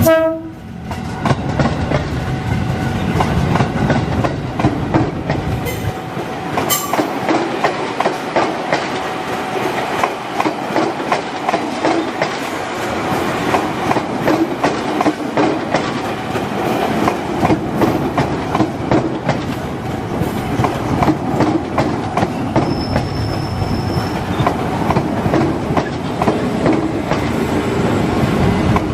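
KRL Commuter Line JR 205 series electric train (set 205-146F, ex Musashino Line) passing close by, its wheels clattering steadily over the rail joints.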